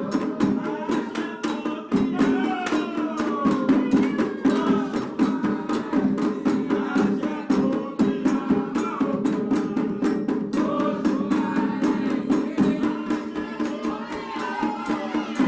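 Afro-Brazilian ritual music: hand drums and percussion playing a fast, dense rhythm under voices singing a Candomblé song for Oxum.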